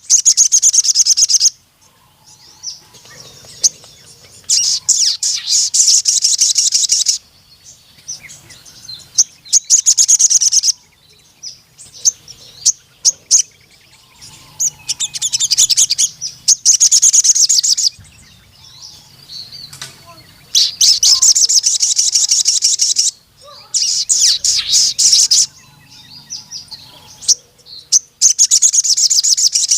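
A ruby-cheeked sunbird (sogon) sings long, loud bursts of rapid, high-pitched trilling notes. Each burst lasts one to three seconds, and they repeat every few seconds with short pauses between.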